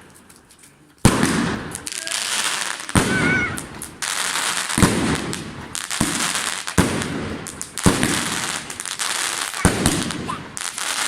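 Fireworks going off: after a short quiet, a sharp bang about a second in, then a run of bangs every one to two seconds with continuous crackling between them.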